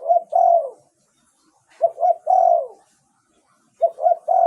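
Spotted dove cooing: three phrases about two seconds apart, each two short notes followed by a longer drawn-out note that falls away at its end.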